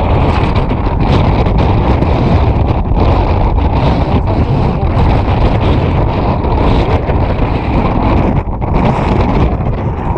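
Strong wind buffeting the microphone: a loud, steady rumble that dips briefly about eight and a half seconds in.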